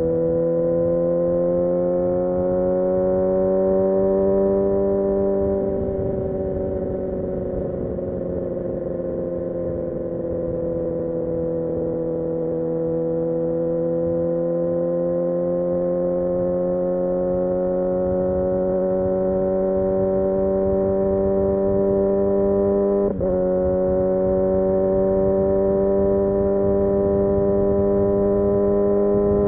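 Kawasaki Ninja ZX-6R inline-four sport-bike engine and exhaust under steady riding load, its note rising and falling gently with throttle. About 23 seconds in it breaks off for an instant, a quick gear change, then carries on.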